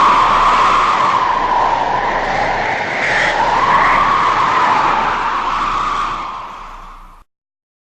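Howling wind sound effect: a rush of wind with a howl that slowly wavers up and down in pitch. It fades from about six seconds in and cuts off just after seven seconds.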